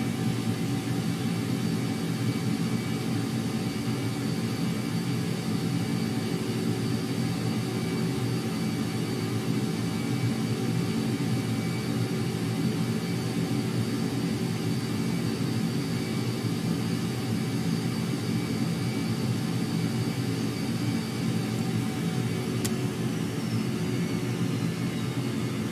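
Jet aircraft engines running steadily, a continuous deep rumble with a faint high whine over it. A single sharp click comes near the end.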